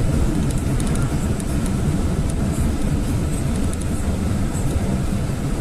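GAZelle van driving at highway speed, heard inside the cab: a steady low engine drone mixed with road and tyre noise.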